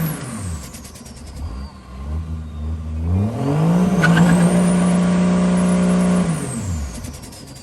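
Turbocharged engine revved hard: it drops off high revs at the start, is brought back up about three seconds in and held for about two seconds, then let off near the end. A high turbo whistle falls, rises and falls again with the revs.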